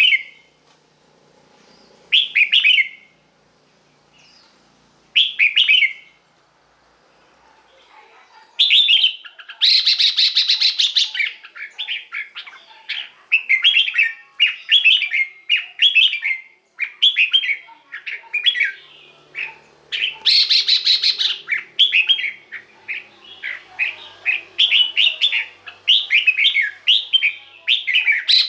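Red-whiskered bulbul singing: short whistled phrases a few seconds apart at first, then from about nine seconds in a quick run of phrases broken twice by a harsh, buzzy burst.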